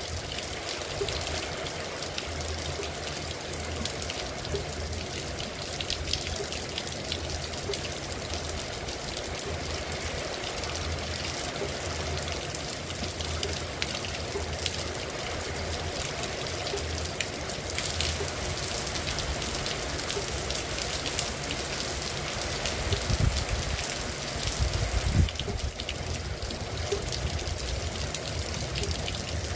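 Heavy rain falling steadily: a continuous hiss with the patter of drops and trickling, running water. Two brief low rumbles stand out a few seconds before the end.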